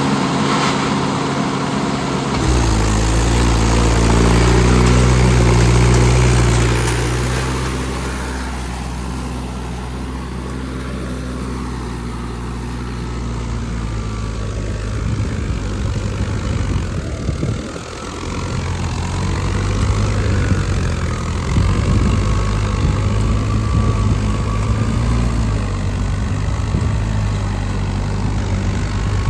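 Swaraj tractor's diesel engine running, revving up hard about two seconds in and easing back a few seconds later, with a short dip in its note a little past the middle.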